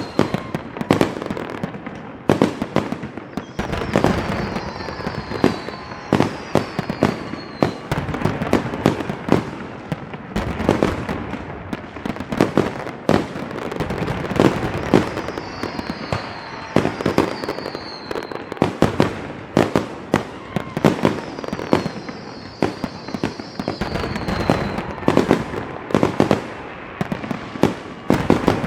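Fireworks going off continuously: rapid, irregular bangs and crackling, with several short whistles falling in pitch scattered through.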